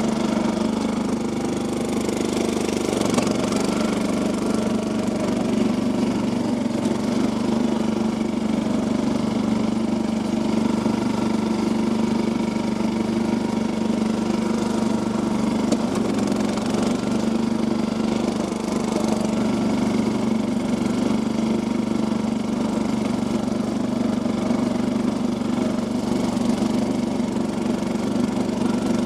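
Small engine of an off-road Yazoo lawn mower conversion running at a steady speed.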